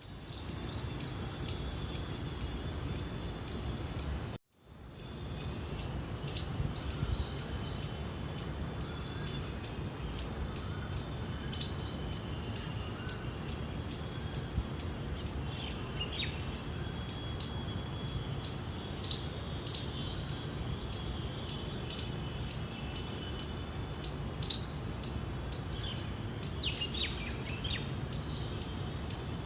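Indian palm squirrel chirping: a long, regular series of short, sharp, high-pitched chirps, about two to three a second, with a brief gap about four seconds in.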